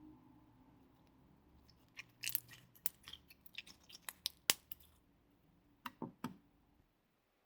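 Slime being squished and pressed by hand, giving a quick run of sticky clicks and pops about two seconds in and two more near the six-second mark.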